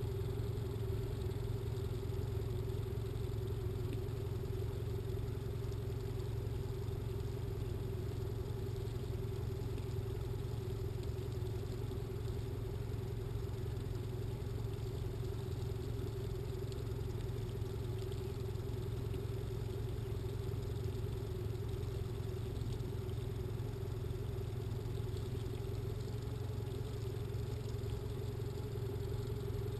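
Boat motor running steadily at slow trolling speed, a constant low hum with a steady higher tone over it.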